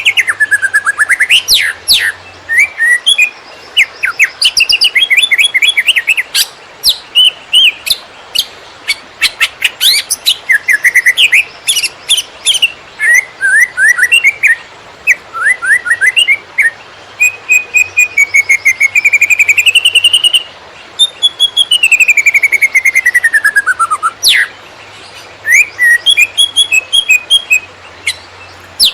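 Cucak ijo (green leafbird) singing a fast, varied 'konslet' song of rapid chirps, trills and warbled phrases, with short pauses between phrases and one long falling whistle about two-thirds of the way through.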